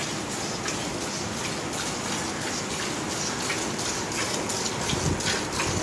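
Streams of milk squirted by hand from a cow's teats into a pail, a rhythmic hissing splash a few times a second.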